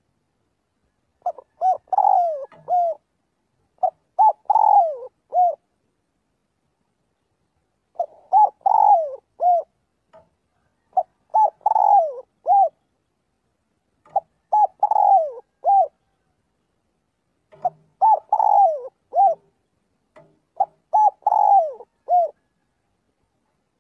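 Spotted dove cooing: about seven phrases of several coos each, each phrase about a second and a half long, repeated every two to four seconds.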